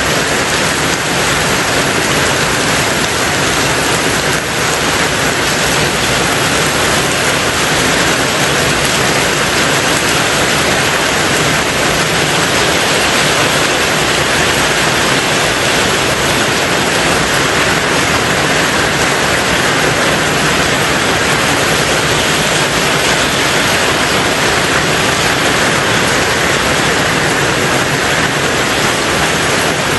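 Steady, heavy rain on a tin roof: a dense, even hiss in which no single drops stand out, with no change in strength.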